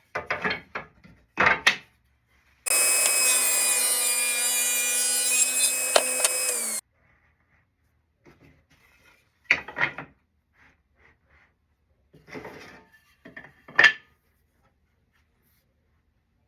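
A woodworking power tool runs steadily for about four seconds, starting and stopping abruptly. Wooden pieces are knocked and handled before and after it.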